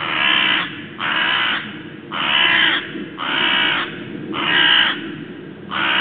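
A crow cawing over and over, six calls of about half a second each at roughly one a second, over a steady low rushing background.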